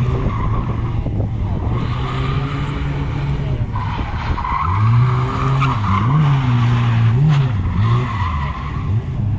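Classic Lada saloon's four-cylinder engine revving hard through a slalom course, its pitch jumping up and dropping several times in the second half as the driver goes on and off the throttle between the gates. Tyres scrub and squeal in the turns.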